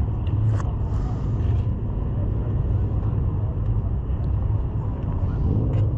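A car engine idling nearby: a steady low rumble.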